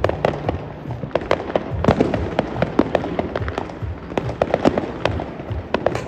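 Fireworks and firecrackers going off in quick succession: many sharp cracks and pops, several a second, without a break.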